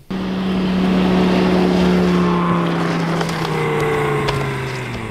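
Lamborghini engine running at a steady towing speed, its note slowly dropping in pitch, over a rushing noise of tyres and wind.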